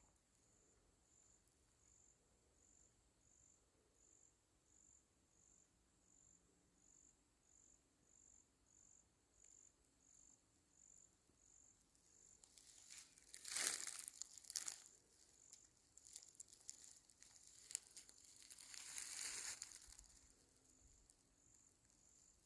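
Faint outdoor ambience: a high insect chirp repeating a little more than once a second, with two short spells of rustling, the first and loudest a little past halfway, the second near the end.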